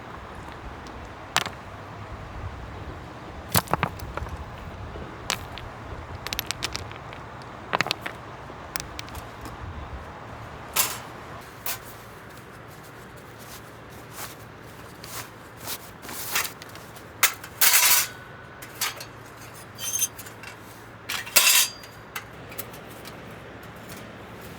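Metal cookware and utensils clinking and knocking in scattered, irregular strokes while cooking, with the loudest clatters about two-thirds of the way through, over a steady background hiss.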